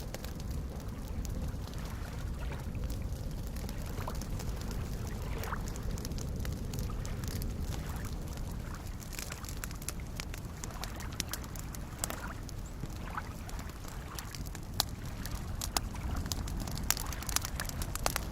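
Campfire crackling with sharp pops and snaps, more frequent near the end, over a steady low wash of small waves lapping at a lakeshore.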